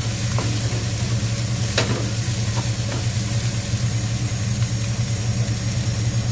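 Diced spam and mixed vegetables sizzling in oil in a non-stick wok, with a few spatula scrapes and knocks on the pan, the loudest about two seconds in. Under it runs the steady low hum of a washing machine.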